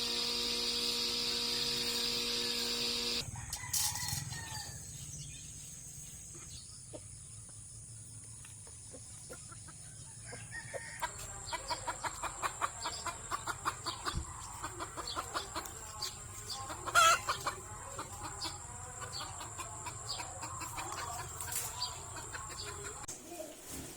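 Backyard chickens clucking, with rapid clucks through the second half and one loud call about two-thirds of the way in. It opens with about three seconds of a steady humming tone.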